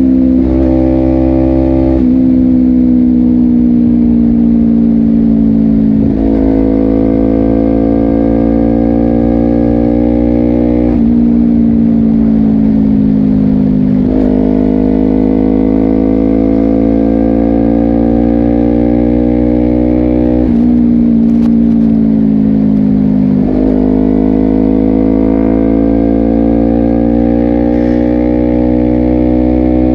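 Honda CBR250RR parallel-twin engine through a Yoshimura exhaust, riding at steady speed. The engine note climbs slowly and then changes pitch suddenly at gear changes about every three to six seconds.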